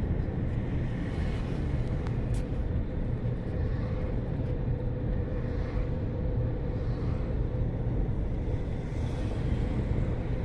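Car driving at a steady speed: an even, low engine and road rumble with a faint steady hum.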